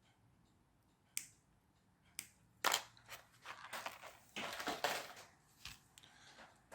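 Small parts being handled on a workbench: a couple of sharp clicks, then a run of crinkly rustling and clicking for about three seconds.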